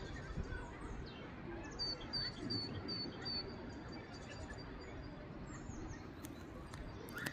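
A small songbird calling: five short, high chirps in quick succession, over steady low background noise.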